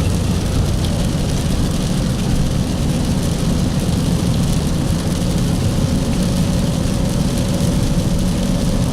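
Car running, heard from inside the cabin: a steady low rumble of engine and road noise with a faint steady hum.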